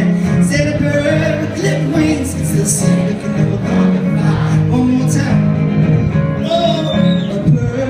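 Live folk-country band playing, with guitar and singing.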